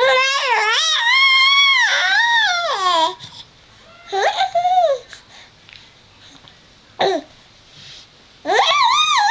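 Four-month-old baby squealing in long, high-pitched, wavering calls, playful vocal play rather than distress. A squeal of about three seconds comes first, a shorter one about four seconds in, and a brief yelp around seven seconds. Another squeal starts near the end.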